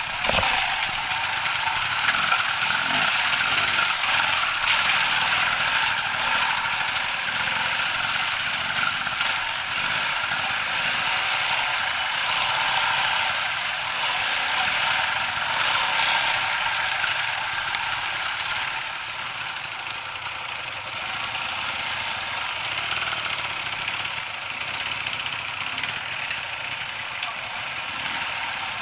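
Off-road motorcycle engine running continuously during trail riding.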